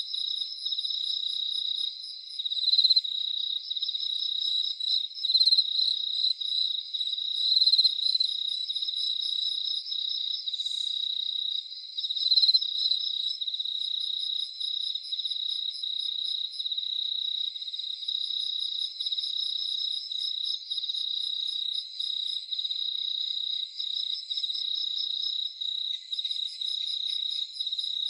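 Crickets chirping in a dense, steady night chorus, one nearer call louder now and then. A second, higher-pitched insect trills in short runs every few seconds.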